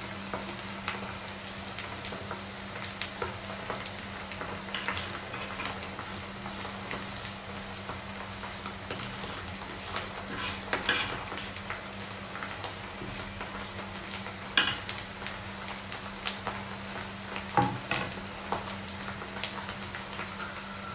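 Onions, garlic and curry leaves sizzling steadily as they fry in oil in a nonstick kadai, with a steady low hum underneath. Occasional sharp clicks and scrapes of utensils against the pan as dry spice powders are tipped in and stirred, the loudest two near the end.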